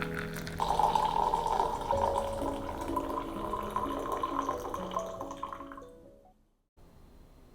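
Soft background music with held notes, over water running from a kitchen tap; both fade out about six seconds in.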